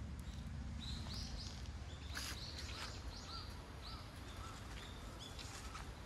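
A bird calling over and over, a run of short high chirps at about three a second that stops shortly before the end.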